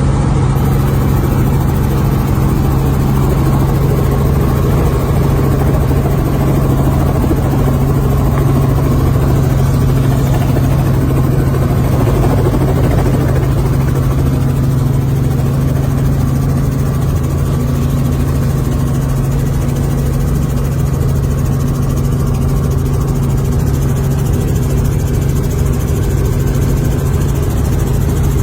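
Helicopter running, a loud steady drone of engine and rotor with a strong low hum that holds unchanged.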